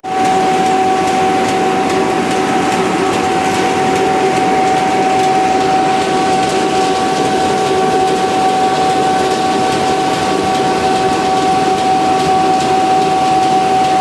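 STERLING S-140 two-web sheeter running steadily while cutting coated board into sheets: a continuous mechanical hum with a constant high-pitched whine.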